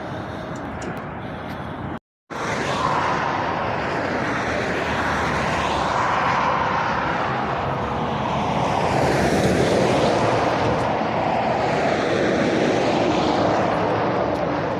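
Road traffic passing at speed, lorries among it: a steady rush of tyre and engine noise that swells as vehicles go by, loudest just past the middle. The sound cuts out completely for a moment about two seconds in.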